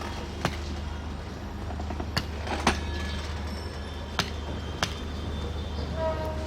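A steady low engine hum with sharp clicks and knocks at irregular intervals, and a brief pitched tone near the end.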